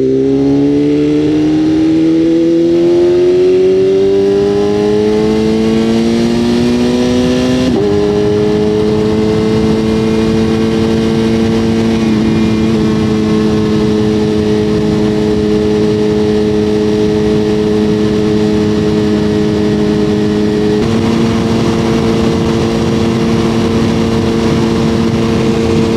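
Motorcycle engine pulling up through the revs for about eight seconds, a quick dip as it shifts up, then holding a steady cruising note, with constant wind rush on the microphone.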